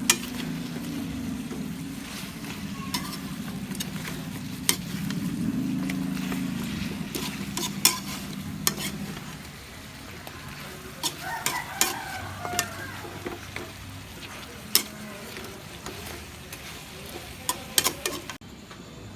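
Chicken for buffalo chicken sizzling as it fries in a pan, with a utensil clicking and scraping against the pan again and again as it is stirred. A steady low hum runs under it and stops about nine seconds in.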